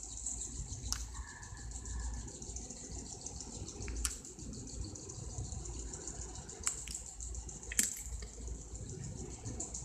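Outdoor nature ambience: a steady, high insect trill over a low rumble, broken by a few sharp clicks.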